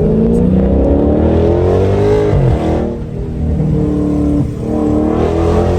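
Dodge SRT's V8 engine screaming under hard acceleration, its pitch climbing through the gears and dropping at upshifts about two and a half and four and a half seconds in.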